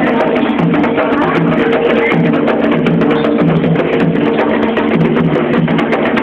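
Loud percussion music: drums with many rapid, sharp clicking strikes over steady pitched tones underneath, going on without a break.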